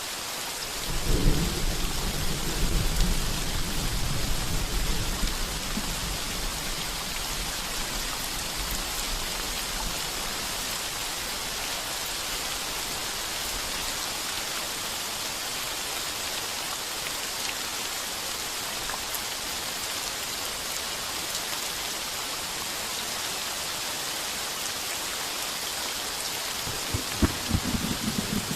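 Heavy rain falling steadily on a tin roof. A long rumble of thunder comes in about a second in and dies away over several seconds, and another thunder rumble starts near the end.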